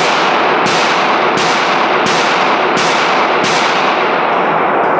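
Handgun shots fired at a steady pace, about one every 0.7 seconds, six in a row, each trailing off in a short echo; the firing stops about three and a half seconds in.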